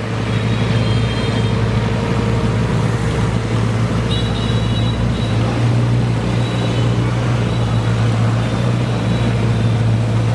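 Car engine running at a steady low drone, with road and traffic noise around it.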